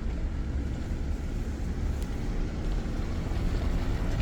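Jeep Gladiator pickup driving slowly over a dirt trail strewn with small rocks: a steady low rumble of engine and tyres.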